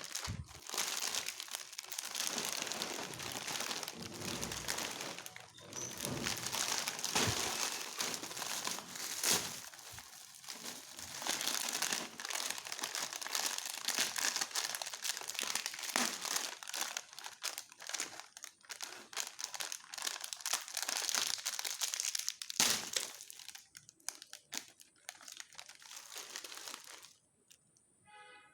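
Plastic snack packets crinkling and rustling as they are handled, a dense run of small crackles that dies away near the end, where a brief tone sounds.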